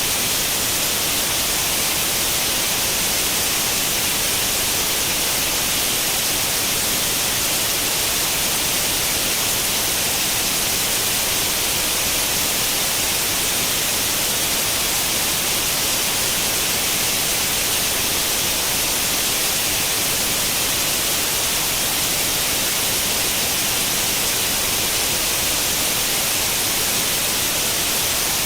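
Steady white noise like the static of an old tube television tuned to no channel: an even hiss, strongest in the high frequencies, unchanging throughout.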